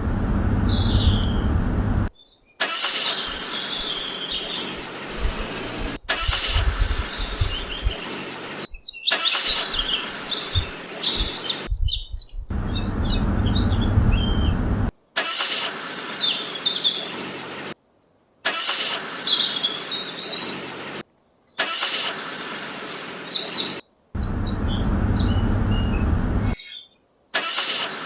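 Birds chirping over a low engine-like rumble, broken into short stretches by abrupt cuts every few seconds.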